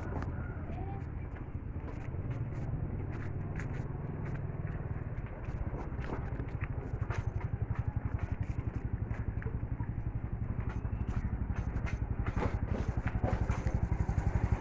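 A small vehicle engine running with a low, even chug that becomes more pronounced and louder from about five seconds in, with scattered clicks and rattles over it.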